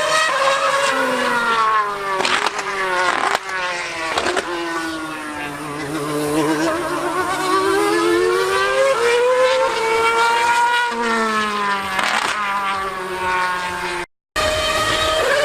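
Formula One car's engine at high revs, its pitch climbing and dropping sharply through gear changes and swinging up and down as the car runs, with a brief cut-out near the end.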